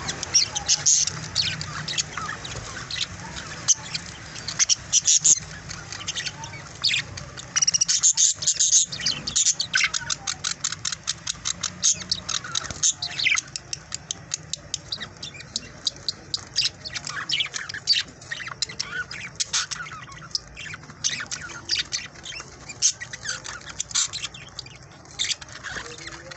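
A flock of budgerigars chattering: a dense, continuous run of short, rapid chirps and squawks, busiest around eight to ten seconds in.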